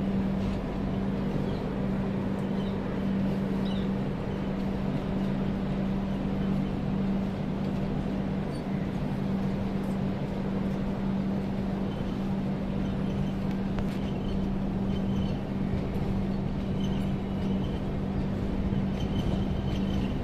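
A passenger train running slowly along a station platform, heard from the coach doorway: a steady low drone with a rumble under it, unchanging throughout.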